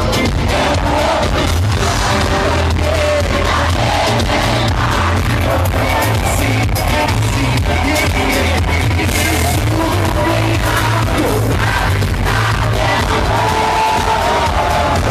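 Live pop band playing loud through a concert PA, with a steady heavy bass line and some singing over it.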